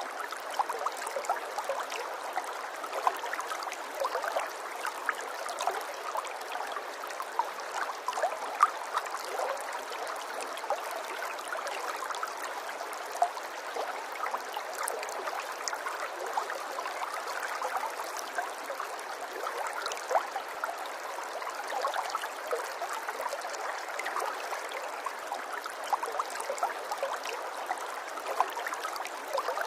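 Running water in a small stream, trickling and gurgling steadily with many small splashes.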